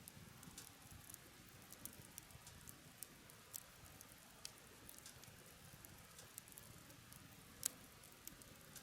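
Wood campfire crackling faintly, with scattered sharp pops; the loudest pop comes near the end.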